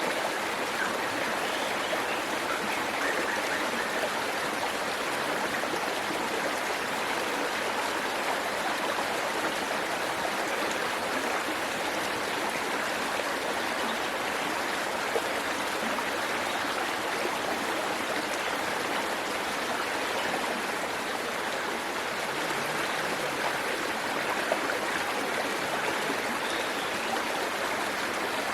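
Waterfall and its stream of rushing water, a steady, even splashing hiss with no change.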